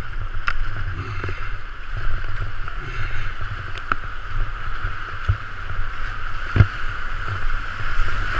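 Rushing whitewater churning around a kayak running a rapid, a steady rushing noise over a low rumble, with a few sharp knocks.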